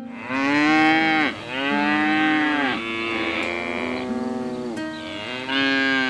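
Cow mooing: a run of about five short moos, each rising and then falling in pitch.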